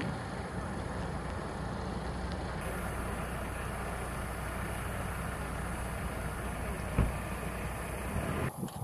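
A heavy vehicle's engine running steadily with a low rumble, and a single sharp knock about seven seconds in.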